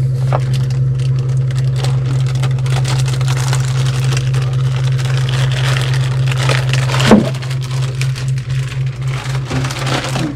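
A steady low machinery hum in a boat's engine space, with plastic rustling and crackling as an oil filter is worked off a generator over a bag. A single sharp knock about seven seconds in.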